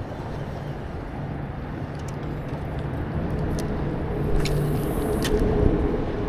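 A motor running steadily: a low, even hum over a noisy wash, with a few faint clicks.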